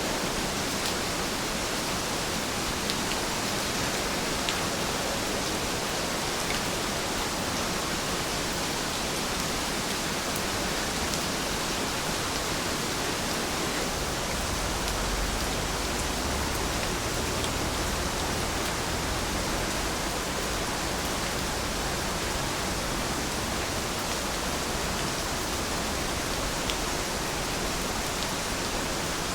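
Steady rainfall: a dense, even hiss of rain with scattered faint drop ticks and a brief low rumble in the middle.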